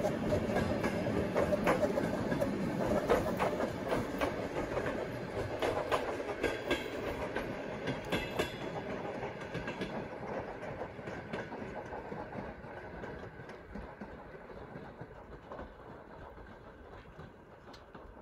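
A train rolling past, a rumbling noise with scattered sharp clicks, fading steadily away as it recedes.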